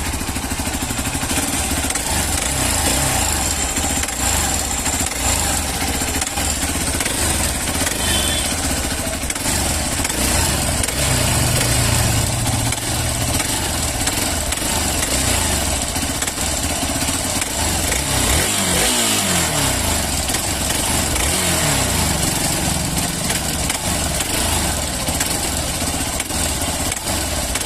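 Motorcycle engine running steadily just after starting, making an abnormal noise whose cause the owner does not know.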